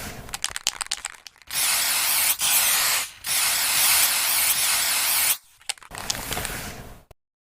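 Electric lightning sound effect. It starts with crackling, then a loud sustained sizzle that is broken by a brief dip, then more crackling, and it cuts off suddenly.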